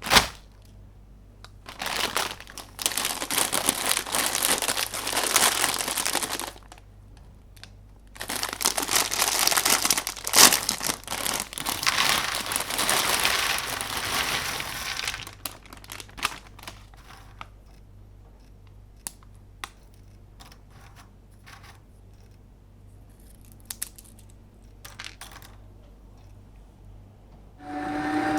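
Crinkling plastic packaging, such as a bag of pretzels, handled and torn in two long stretches, followed by scattered light clicks and taps. Near the end an electric meat grinder's motor starts up with a steady hum.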